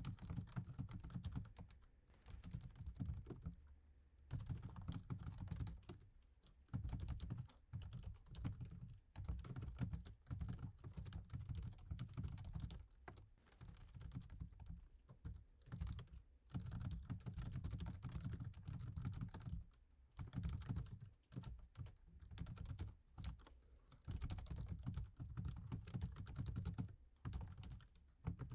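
Laptop keyboard typed on steadily, quick runs of sticky-sounding key clicks broken by short pauses.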